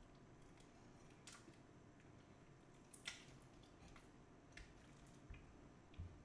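Near silence broken by a few faint wet clicks and smacks, spaced about a second apart, from a man chewing and sucking on spicy chicken feet.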